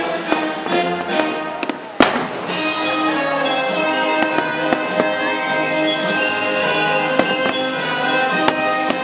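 Fireworks shells bursting over the show's music: one loud bang about two seconds in, then scattered sharper pops through the rest.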